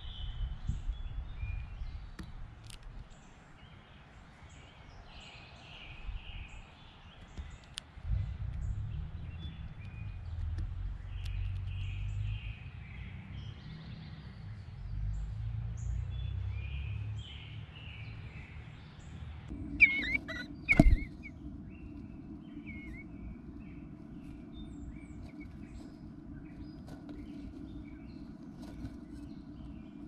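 Songbirds chirping and singing over a low rumble. Past the middle, two loud sharp knocks come about a second apart. Then a steady low hum runs under fainter chirps.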